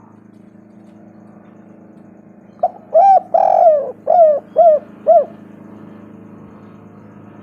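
Spotted dove (tekukur) cooing one phrase of six notes: two short coos, a longer drawn-out coo, then three short coos, each note arching up and down in pitch.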